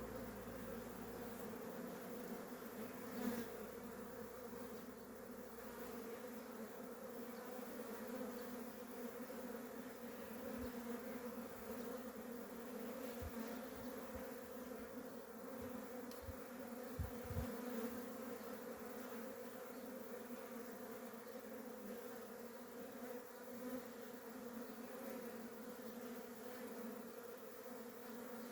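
Steady buzzing hum of a swarm of native Korean honeybees on the move during natural swarming.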